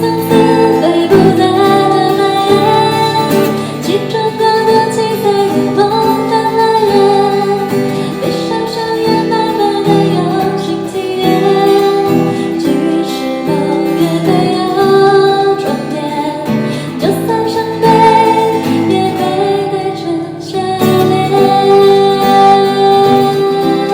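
A woman singing a gentle song to strummed acoustic guitar.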